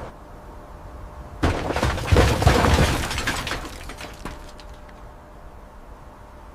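A sudden shattering crash about one and a half seconds in: dense crackling and breaking for about two seconds, then tapering off with a few last sharp clicks.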